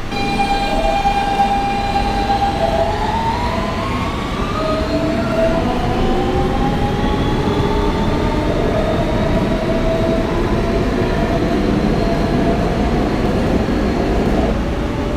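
Siemens traction motors of a Kawasaki R160B subway car whining as the train pulls away and accelerates. A steady tone begins to climb in pitch a few seconds in, then further tones rise one after another over the rumble of wheels on rail. One tone drops out near the end as the power eases.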